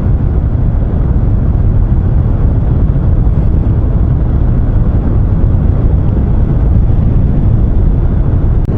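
Triumph Street Triple 660's three-cylinder engine running steadily at riding speed, heard with even wind and road rush from on board the motorcycle.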